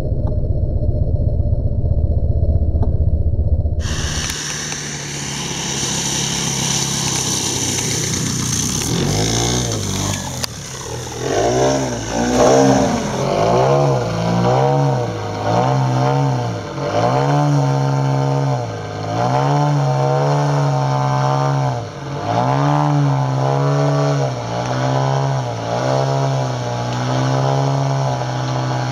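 Engine and propeller of a giant-scale (50%) Sbach radio-controlled aerobatic plane in flight. Its note rises and falls over and over as it is throttled and manoeuvred through passes. The first few seconds are a duller, low-pitched engine sound that changes abruptly about four seconds in.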